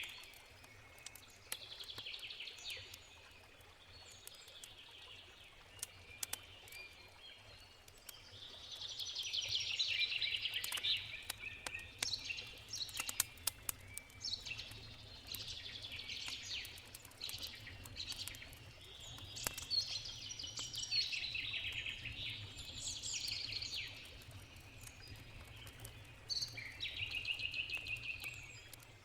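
Songbirds singing in repeated rapid trilled phrases, over the scattered sharp pops and crackles of a wood campfire and a steady low rumble.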